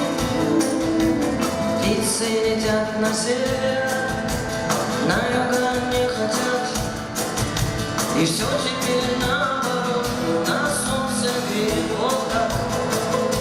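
Live concert music: a band playing with a steady drum beat, with singing at times.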